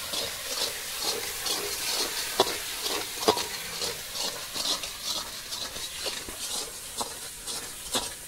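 Spice masala frying in oil in a pot on an earthen wood-fired stove, a steady sizzle, while a metal spatula stirs it, scraping and knocking against the pot about twice a second. The turmeric and chilli powder have just gone in.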